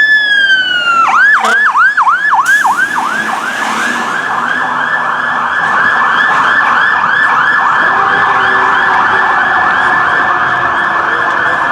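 Fire apparatus siren on an emergency response. A slow wail falls off about a second in and switches to a yelp, with quick up-and-down sweeps that speed up into a fast continuous warble.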